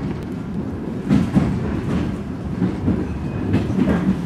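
Passenger train running, heard from inside the carriage: a steady low rumble with a few knocks of the wheels over rail joints.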